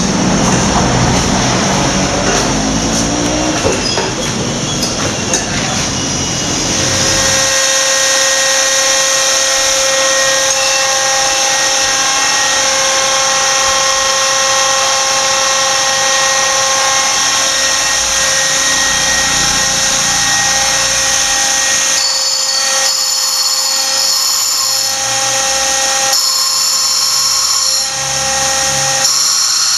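Handheld power tool finishing a stainless steel boat rail. It runs with a rough, rasping sound for the first several seconds, then settles into a steady high-pitched whine.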